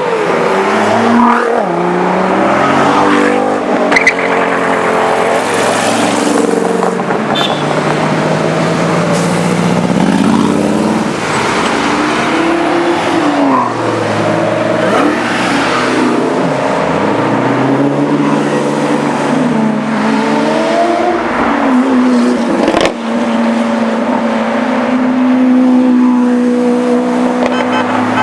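Several exotic sports-car engines revving and accelerating, their pitch rising and falling again and again with overlapping engine notes.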